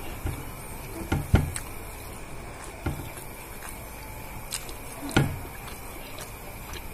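Chewing and wet mouth smacks of someone eating rice and food by hand, a handful of short smacks spaced irregularly, the strongest about a second in and about five seconds in.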